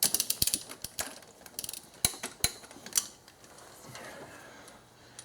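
Hand ratchet or socket wrench clicking in a quick run of sharp clicks as the last upper intake manifold bolt is tightened, with a few louder clicks about two seconds in; it then goes quiet.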